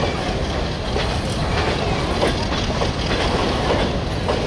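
Freight train of covered box wagons rolling past close by: a steady rumble of steel wheels on the rails, with a rapid clatter of clicks as the wheels run over the rail joints.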